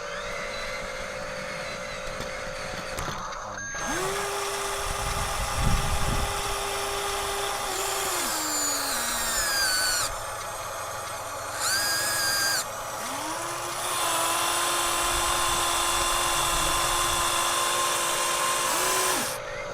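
Small electric motors and gearboxes of Huina radio-controlled construction models whining in runs. They spin up, hold a steady pitch for a few seconds and wind down, with a brief higher whine in between.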